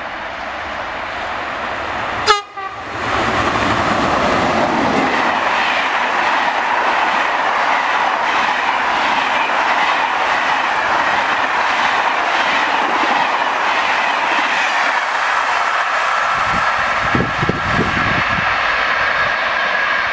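A Téoz express train hauled by a BB 22200 electric locomotive runs through a station at speed: a steady loud rush of wheels and coaches on the track, with a faint high whine in the last few seconds. A single sharp click comes about two seconds in, just as the noise jumps up.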